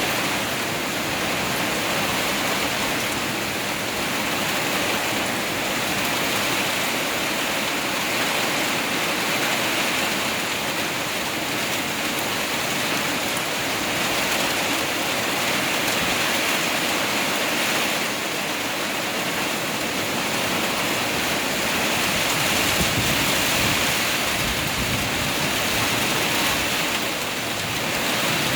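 Heavy rain pouring in a storm with strong wind, a dense steady rushing hiss that swells and eases every few seconds.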